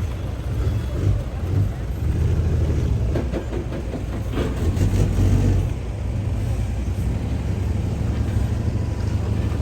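Motor vehicle engine running with a steady low rumble, with faint voices in the background.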